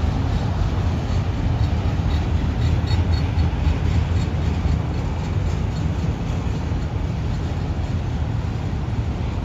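Train running past with a steady low rumble, with a few faint ticks about two to four seconds in.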